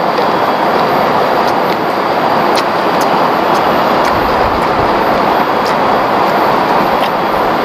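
Steady rush of a large river's flowing water, loud and unbroken, with a few faint clicks over it.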